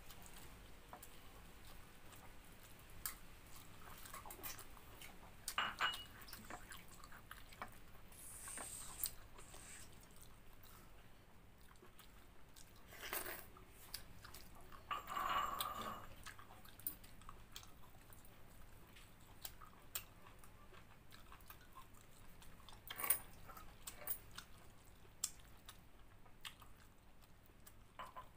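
A person chewing and biting into a meal of chicken curry and watered rice. There are scattered small clicks and a few louder mouth and eating noises.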